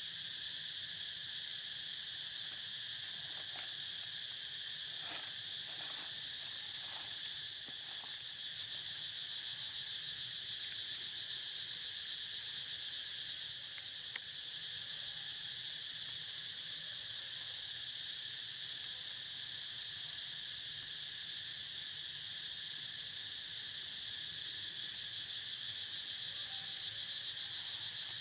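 Steady chorus of insects, a continuous high-pitched drone, with a few faint short sounds between about three and eight seconds in.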